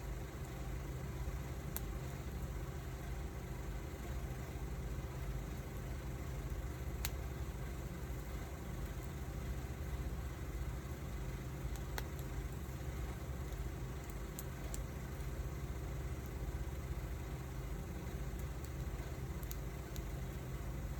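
Wood fire burning, with a steady low rumble and a few sharp crackles of snapping wood spread through.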